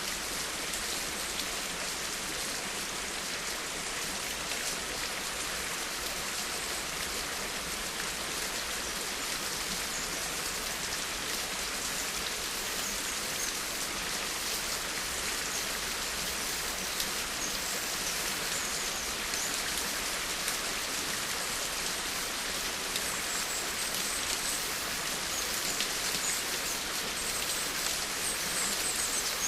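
Steady rain falling: an even hiss of countless drops with fine scattered ticks.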